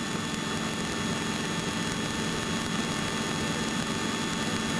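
Steady drone of a small helicopter's engine and rotor heard inside the cabin in flight, a continuous noisy hiss with faint steady hum tones.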